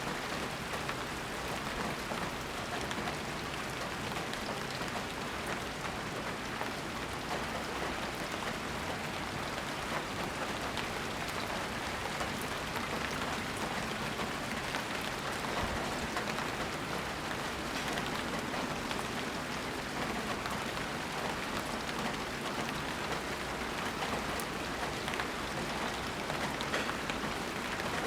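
Steady rain falling and pattering on surfaces, an even hiss with fine scattered drop ticks and no thunder.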